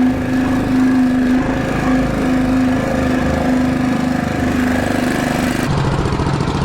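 Mini bike's small engine running steadily, then dropping to a lower, slower pitch near the end.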